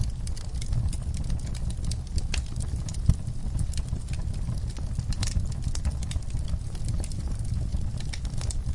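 Wood fire in a fireplace crackling: a dense stream of sharp pops and snaps over a steady low rumble, with one louder pop about three seconds in.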